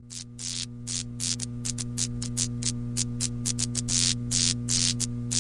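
A steady low two-tone hum with short bursts of hiss about five times a second on top.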